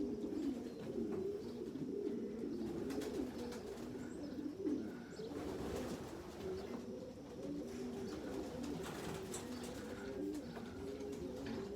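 A flock of racing pigeons cooing together, many low coos overlapping in a continuous chorus.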